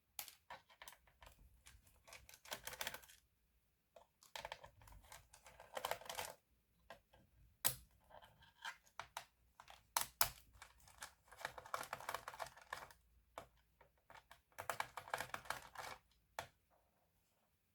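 Faint handling sounds from working on a Lenovo B570e laptop: scattered sharp plastic clicks and taps, with several stretches of scraping and rustling lasting a second or two.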